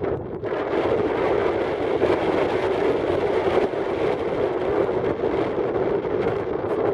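Steady rushing noise of a car driving, with wind buffeting the microphone.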